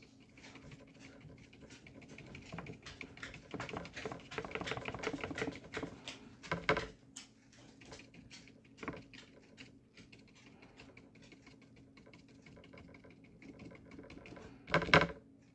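Paintbrush dabbing and tapping gouache onto paper in quick, light taps, thickest in the first half. A few louder knocks stand out, near the middle and just before the end.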